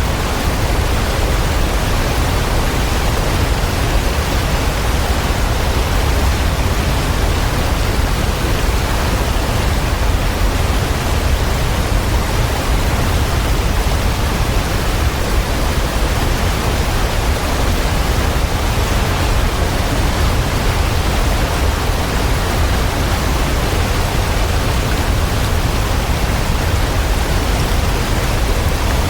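Waterfall, a steady rushing of falling water that does not change, heaviest in the low end.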